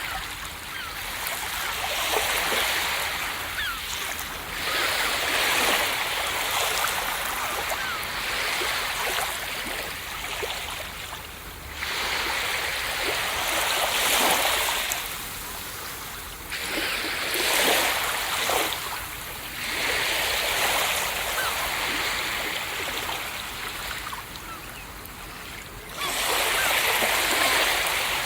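Ocean surf: waves break and wash up the beach one after another, each surge of hiss and splash swelling and fading over a few seconds.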